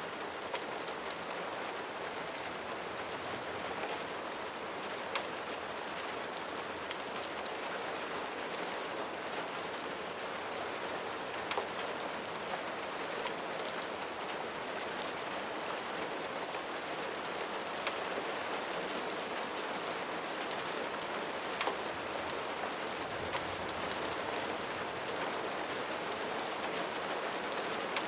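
Steady rain falling on a surface, a constant hiss with scattered sharp drop ticks.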